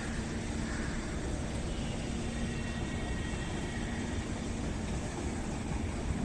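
Kochi Metro train running: a steady rumble with a faint whine held over it.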